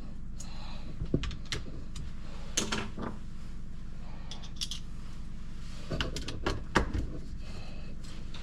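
Scattered metallic clinks and knocks of hand tools and parts being handled, over a steady low hum.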